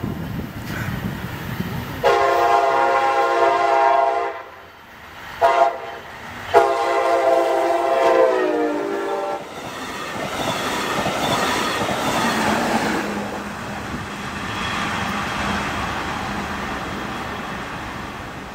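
Brightline passenger train sounding its horn at a level crossing: a long blast, a short one, then a long one whose pitch drops as the locomotive passes. After that comes the steady rush and clatter of the train's wheels running past on the rails.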